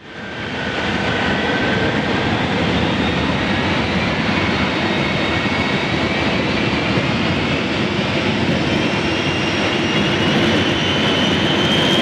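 Jet truck's turbojet engines running with a steady loud roar and a high whistling whine that slowly rises in pitch.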